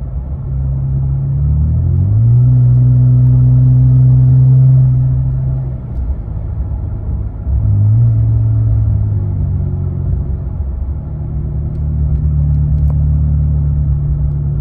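2022 Nissan Frontier's 3.8-litre V6 running through its exhaust with a low, steady engine note. It swells louder about two seconds in and holds, falls back around six seconds, picks up again about a second and a half later, and settles into a steady drone for the last few seconds.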